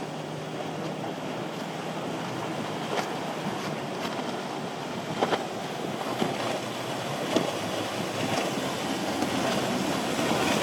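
Boat engines running in the inlet over surf and wind on the microphone, growing slowly louder, with a few short sharp slaps.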